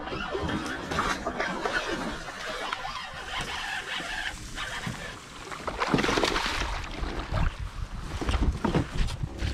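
Water splashing and knocking against a kayak while a hooked largemouth bass is fought toward the boat; busier and louder from about six seconds in.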